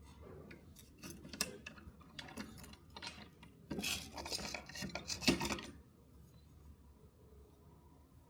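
Irregular scraping and clinking of hand work on metal, a quick run of short strokes and knocks that grows busier and louder about four seconds in, then stops just before six seconds.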